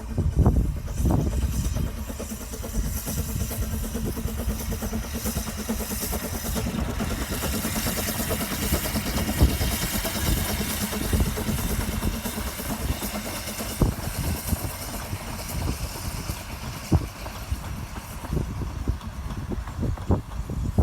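Strong wind buffeting the phone's microphone, with a high hiss over it and a faint steady hum between about 4 and 14 seconds in.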